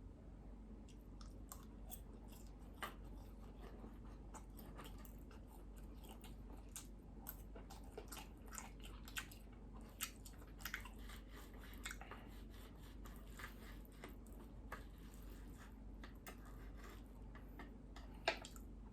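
Close-miked chewing and biting of breakfast meats, with irregular small wet clicks and smacks.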